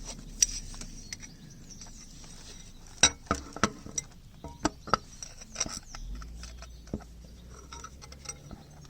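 Hand tools and metal fasteners clinking and tapping now and then against the steel sump plate and engine block as the plate is being refitted, with a cluster of sharp clinks in the middle.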